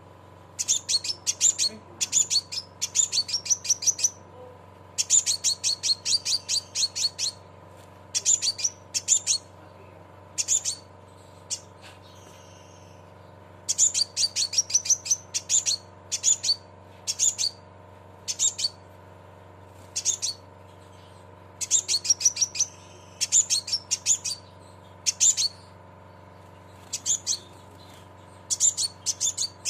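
Sepah raja (scarlet minivet) giving its rapid 'cret cret' chattering call: quick trains of sharp, high chirps in bursts of one to two seconds, repeated with short pauses. A faint steady hum lies beneath.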